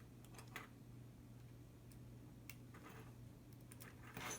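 Near silence with a few faint, sparse clicks of a small plastic car-alarm remote fob being handled while a tiny screw is worked out with a small Phillips screwdriver; a slightly louder click comes near the end.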